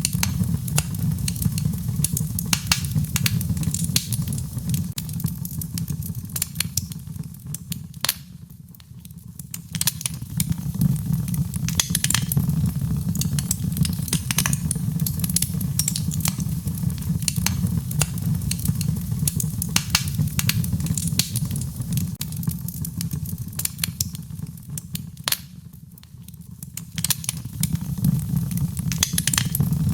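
Wood fire in a fireplace crackling: frequent sharp pops and snaps over a low, steady rumble of the flames. It eases off briefly twice, about eight and twenty-five seconds in.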